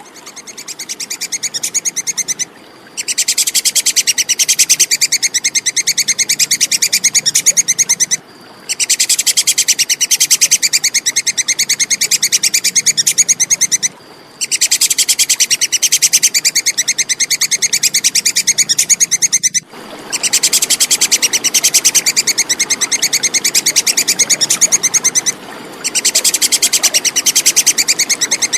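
Tupai kekes squirrel chattering: a fast run of sharp, high repeated notes kept up in bouts of about five seconds, broken by short pauses.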